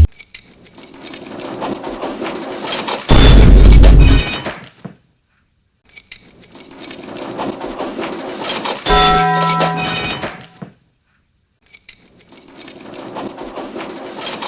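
Three back-to-back replays of the same cartoonish film clip, each a run of clattering and clinking ending in a different dubbed-in sound effect, cut apart by short dead silences. The first carries a very loud heavy impact a few seconds in, the second a sharp hit with a ringing tone around the middle, the third more clinking and breaking noise.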